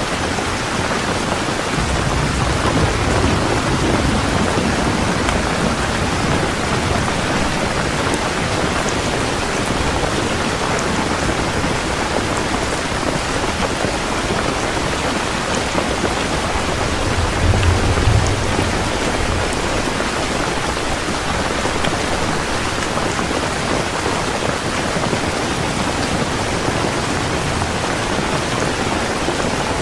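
Heavy rain falling steadily, with a low rumble of thunder a few seconds in and a stronger one about halfway through.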